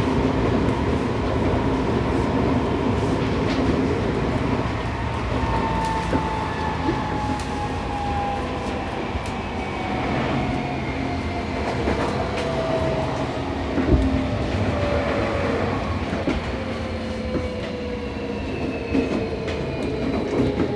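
Seibu 6000 series electric train's Toshiba IGBT inverter and traction motors heard from inside the motor car, their whine falling steadily in pitch from about six seconds in as the train slows, over running noise and clicks of the wheels over rail joints.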